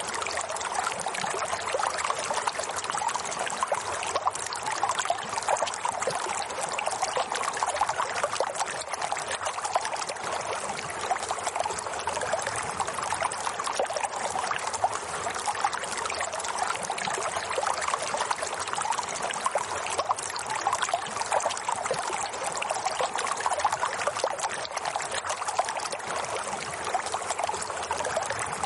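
Water flowing and trickling steadily, like a small stream running over stones, with a continuous fine splashing and bubbling.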